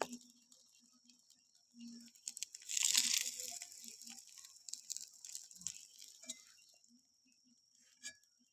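Crinkling, rustling handling noise with small clicks, loudest for about a second around three seconds in, over a faint steady hiss.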